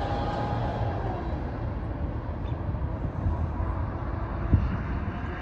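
CSX intermodal freight train of empty well cars rolling away, a steady low rumble of wheels on rail slowly fading. A thin squealing tone sounds in the first second.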